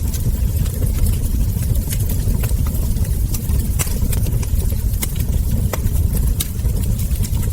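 Wood fire burning: a steady low rumble under frequent, irregular sharp crackles and pops from the logs and embers.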